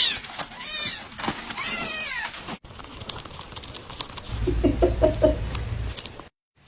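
Kitten mewing: two high, arching mews in the first couple of seconds. A low steady hum follows in the second half.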